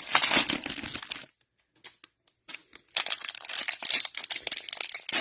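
Plastic cello pack wrapper of trading cards crinkling as it is torn open and handled, with about a second and a half of near silence in the middle.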